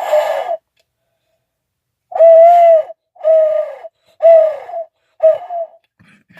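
Hunter's Specialties Hooter owl locator call blown by mouth: one hoot, a pause, then a run of four hoots about a second apart, each dropping slightly in pitch at its end. The caller is choked up and can barely blow it.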